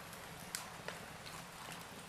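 Wood fire in a fireplace crackling softly, with a couple of small sharp pops about half a second and about a second in.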